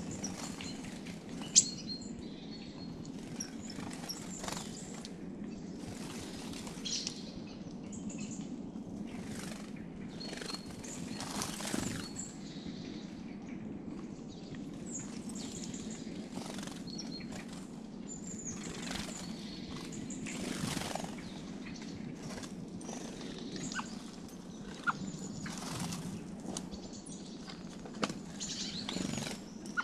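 Small songbirds chirping and calling in short, scattered notes, with brief wing flutters every few seconds, over a steady low background hum.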